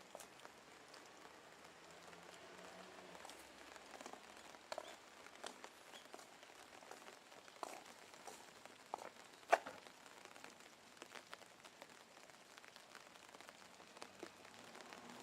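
Light rain: a faint steady hiss with scattered, irregular drips and taps, one sharper tap about nine and a half seconds in.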